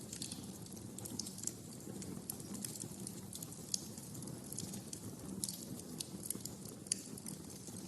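Wood fire crackling in a fireplace: irregular sharp pops and snaps over a steady low rumble of flame, with two louder pops, one about midway and one near the end.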